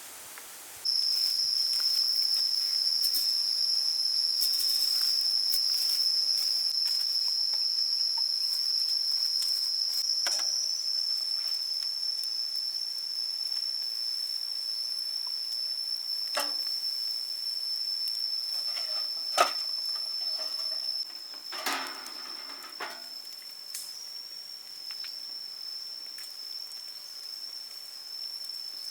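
Steady high-pitched insect drone, one unbroken tone, with a few scattered knocks and clatters partway through.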